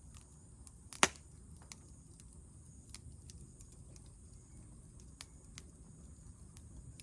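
Campfire wood crackling: scattered sharp snaps, with one loud pop about a second in, over a low steady rumble.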